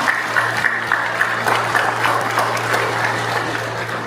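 Congregation applauding: many hands clapping in a dense patter, easing off slightly toward the end, over a low steady hum.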